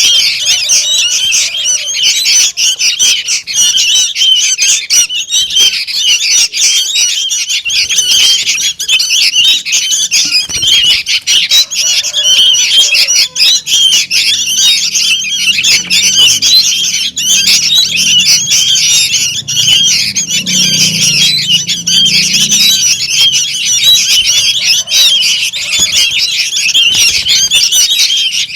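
A crowd of young sooty-headed bulbuls (kutilang) calling noisily, a dense unbroken chatter of short, shrill begging calls. It is the kind of recording played as a lure to attract bulbuls.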